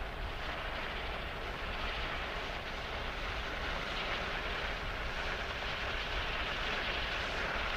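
Steady hiss of a gas cutting torch's flame biting into steel, a sound effect for the experimental Oxyhydnite cutter.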